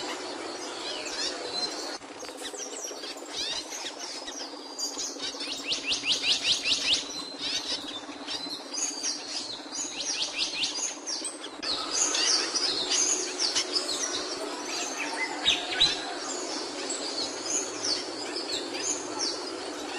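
Capuchino seedeater singing: quick, high chirps with a fast run of evenly repeated sweeping notes about five seconds in, then livelier, varied warbling from about twelve seconds in. A steady low background hiss runs underneath.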